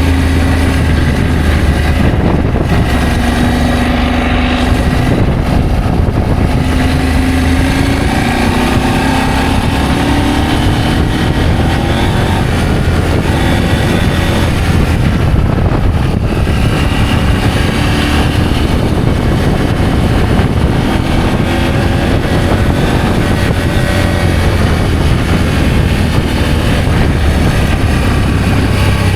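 Adventure motorcycle engine running under way, its pitch rising and falling as the throttle and gears change, over a steady rush of noise.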